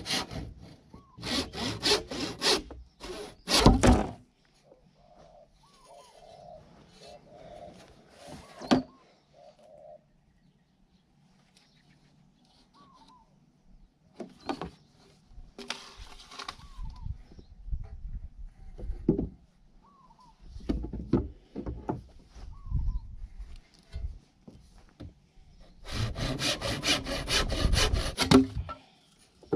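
Hand saw cutting bamboo in bursts of quick back-and-forth strokes, with pauses between the bursts.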